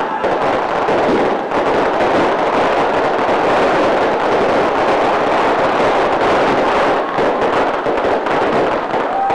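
Fireworks crackling densely and without a break, many small bangs in rapid succession.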